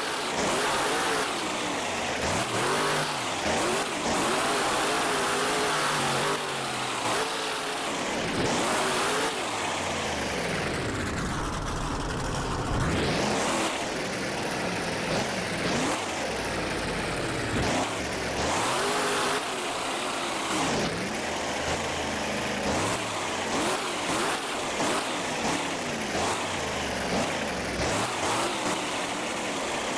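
Monster truck engine revving hard over and over during a freestyle run, its pitch repeatedly climbing and dropping.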